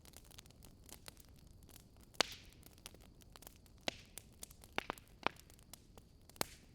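Burning wood crackling: irregular sharp pops and snaps over a quiet background, the loudest about two seconds in with a brief hiss after it.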